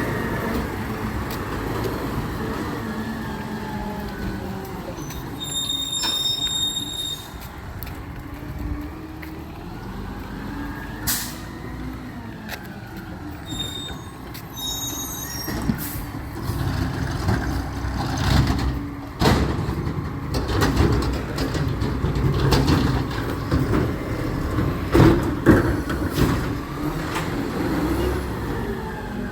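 Recycling truck working at the curb: its diesel engine running, falling in pitch at the start, with two spells of short high beeps and several sharp knocks as it works.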